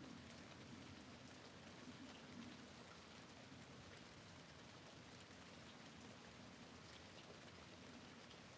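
Faint, steady rain with scattered light drop ticks, heard at a window.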